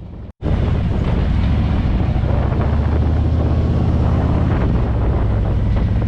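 Motorcycle on the move: a low, steady engine drone under heavy wind buffeting on the microphone. It starts suddenly about half a second in, after a brief silence.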